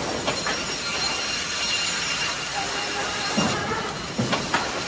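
Timber-processing machinery running: a steady mechanical din with several high, steady whining tones, broken by short knocks and clatter, loudest in the second half.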